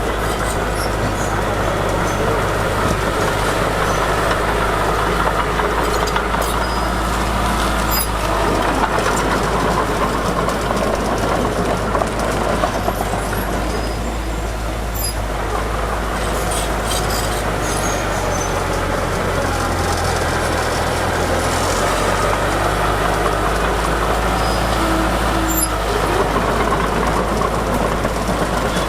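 Heavy diesel earth-moving machinery running steadily under load, with scattered light metallic clicks and clanks. The engine note shifts briefly about twenty seconds in.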